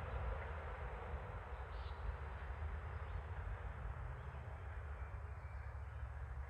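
Outdoor ambience: a steady rushing hiss over a low, uneven rumble, with one faint short high call about two seconds in.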